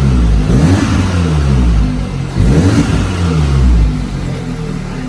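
Audi S3's turbocharged four-cylinder engine, with its turbo muffler deleted, being revved several times, the pitch rising and falling with each rev. It then settles to a steady idle about a second before the end.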